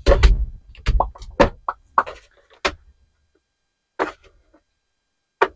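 A run of sharp clicks and knocks, with two more single clicks about four seconds in and near the end. It is metal hand-tool handling as a rivet nut insert tool is set up for use.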